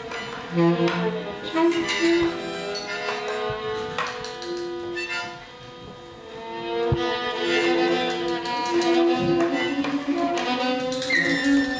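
Small live ensemble of instruments playing a slow piece of overlapping held notes that change pitch every second or so, with a couple of sharp knocks and a brief quieter stretch midway.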